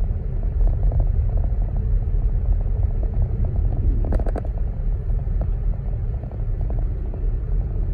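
Steady low rumble of a car driving, with a few short clicks about four seconds in.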